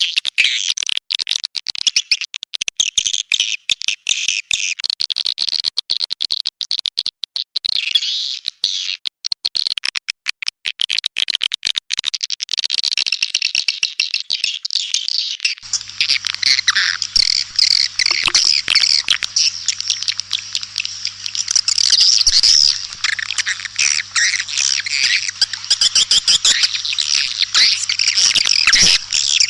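Recorded swiftlet calls used as a lure call for swiftlet houses: a dense, continuous stream of rapid high chirps and twitters from edible-nest swiftlets. About halfway through the twittering becomes denser and fuller, with a steady low hum underneath.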